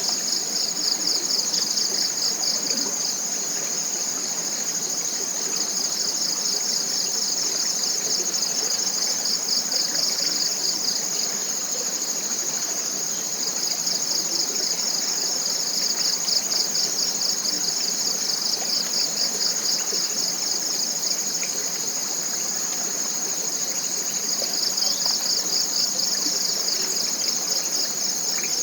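Forest insects calling: a steady high whine with a second, rapidly pulsing high trill that swells in spells of several seconds and fades between them. Beneath them runs the soft, even rush of a small stream.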